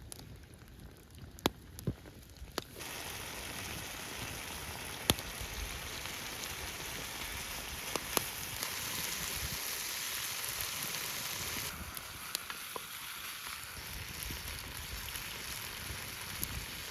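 Campfire crackling with sharp pops, then, about three seconds in, a steady sizzling hiss starts suddenly, as of food frying in a pan over the fire, with occasional pops from the fire through it.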